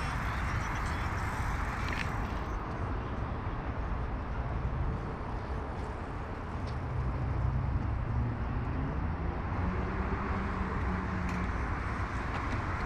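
Steady city traffic hum: a low rumble of road traffic, with a vehicle engine rising and falling in pitch as it passes midway through.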